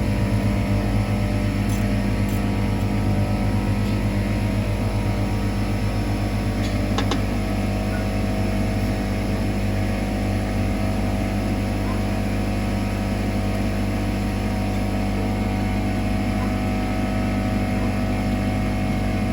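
A steady, unchanging motor drone with a low hum, with a few faint ticks about seven seconds in.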